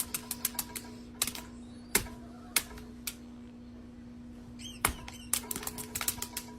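Irregular light clicks and taps, some in quick clusters, over a steady electrical-sounding hum, with a brief high squeak a little before five seconds in.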